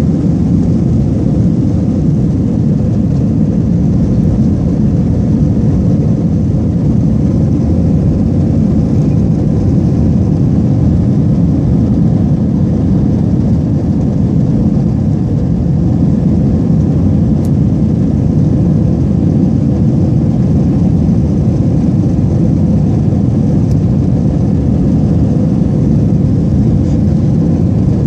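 Airliner engine and airflow noise heard inside the passenger cabin: a loud, steady, low rumble with a faint steady hum.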